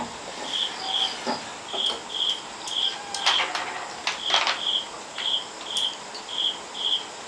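A cricket chirping steadily, about two short chirps a second at one high pitch, with a few light clicks or knocks partway through.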